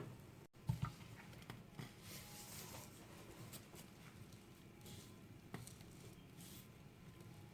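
Faint kitchen handling sounds: two sharp knocks just under a second in, then scattered light clicks and a soft rustle.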